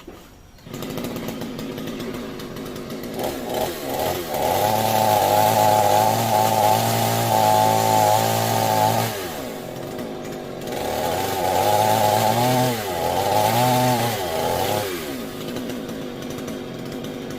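Two-stroke chainsaw running, opened up to full throttle twice for several seconds each, its pitch wavering under load and dropping back between and at the end, as it cuts into a coconut palm.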